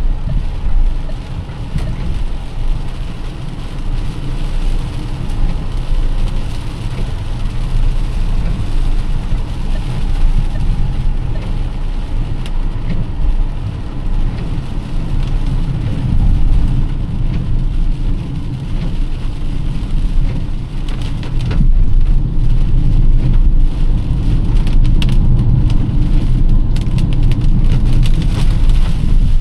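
Heavy rain falling on a moving car, over a steady low rumble of the car driving on a wet road. About two-thirds of the way through it grows louder, with sharp patters of drops.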